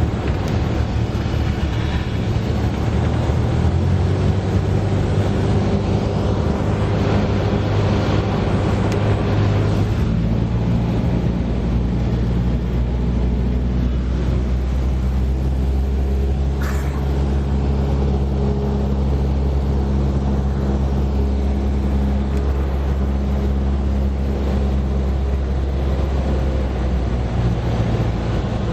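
Cessna 172S's four-cylinder piston engine and propeller droning steadily, heard from the cabin. About ten seconds in, the engine note changes and deepens as the power setting is altered.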